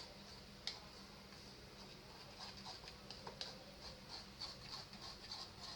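A spoon stirring dry flour and cocoa powder in a bowl: faint, irregular clicks and scrapes against the bowl, with two sharper taps.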